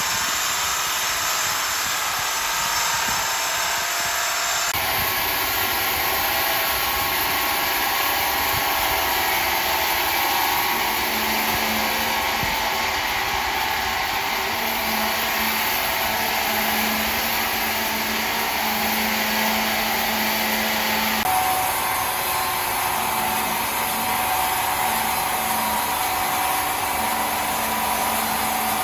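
Sawmill machinery running with a steady whirring noise. The sound changes abruptly twice, about five seconds in and about two-thirds of the way through.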